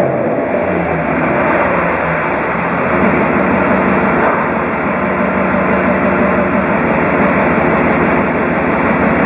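Freshly overhauled Mercedes-Benz M119 5.0-litre V8 of an R129 SL500 running steadily.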